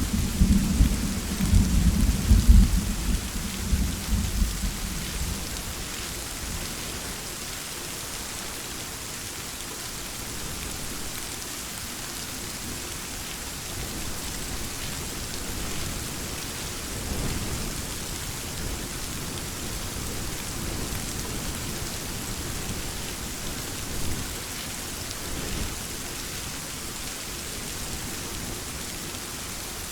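Steady rain falling, with a rumble of thunder that dies away over the first few seconds. Fainter low rumbles of thunder swell up twice later on.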